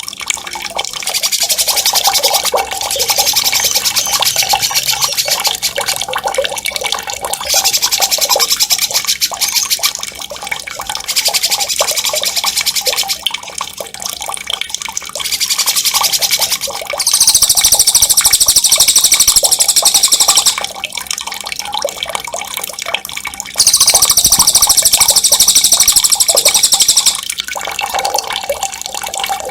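Songbirds singing rapid, high rolling trills in repeated bursts of a few seconds each, over a steady background of running water: a birdsong training (masteran) track with water sound added to calm the birds.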